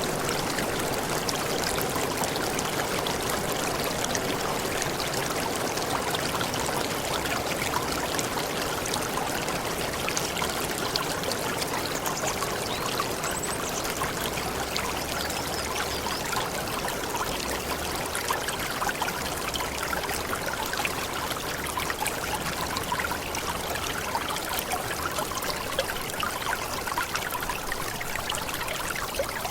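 Waterfall in a tropical forest: a steady, even rush of falling and splashing water with no breaks.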